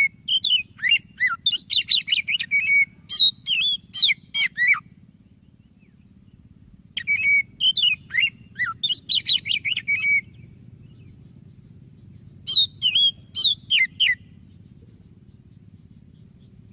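White-breasted Oriental magpie-robin (kacer) singing: three bursts of rapid, varied whistled notes that glide up and down, separated by pauses of about two seconds, over a faint steady low hum.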